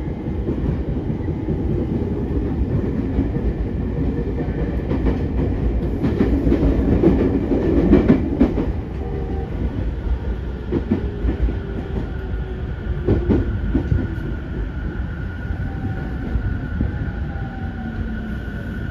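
Inside an E231-3000 series electric commuter train running on the line: steady wheel and body rumble, with wheels clacking over rail joints a few times, loudest around the middle. In the second half a faint motor tone slowly falls in pitch as the train slows for the next station.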